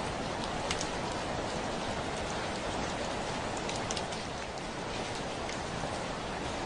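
Steady rain hitting a window: an even hiss of rain with scattered sharp ticks of single drops striking the glass.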